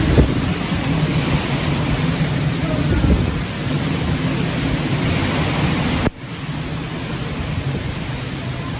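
Hurricane wind and rain blowing against the microphone: a loud, steady rushing hiss with a low rumble underneath, dropping abruptly about six seconds in.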